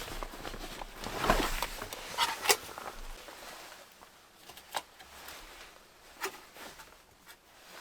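Irregular handling noises: rustling with a few sharp clicks and knocks, busiest in the first three seconds, then scattered single knocks.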